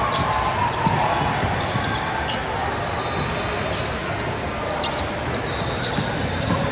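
Basketball bouncing on a hardwood court, a few sharp thuds scattered through, over a steady murmur of crowd voices in a gym. A brief squeak about five seconds in.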